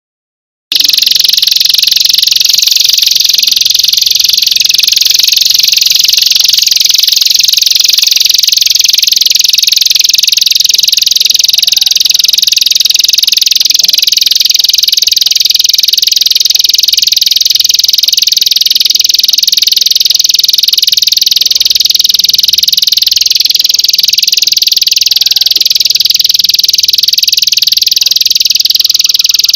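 A recorded animal call of the kind used to tutor songbirds: a high, very fast continuous trill that starts abruptly just under a second in and runs on without a break.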